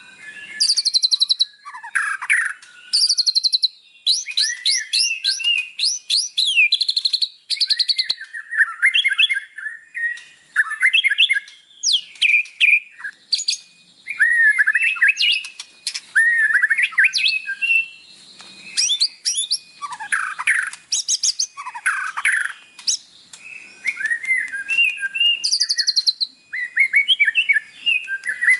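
White-rumped shama singing a long, varied song: clear whistles and fast rattling trills follow one another in quick phrases with short pauses between them.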